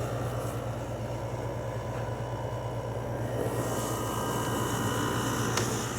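LG 6000 BTU window air conditioner running: a steady low hum from the compressor under the rush of the fan's air. The airy hiss gets brighter about three and a half seconds in.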